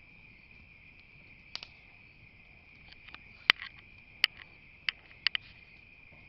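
Campfire crackling with scattered sharp pops, the loudest about halfway through, over a steady, high-pitched chorus of crickets.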